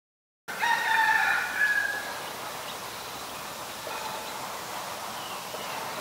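A loud, drawn-out bird call, about a second and a half long, that starts abruptly half a second in. It is followed by a quieter outdoor background with a few faint, short chirps.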